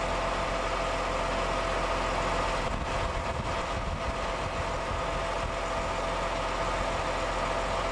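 A 2004 McCormick MTX120 tractor's diesel engine idling steadily: an even hum with a few held tones and no change in speed.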